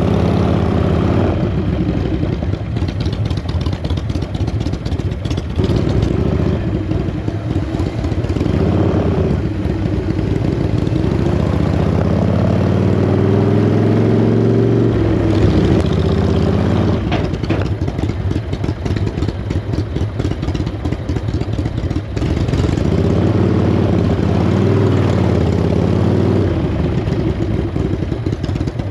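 Motorcycle engine running continuously, its revs rising and falling a few times, most plainly around the middle.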